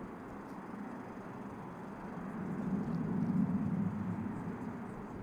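Low rumble of a passing vehicle that swells to a peak about three to four seconds in, then fades.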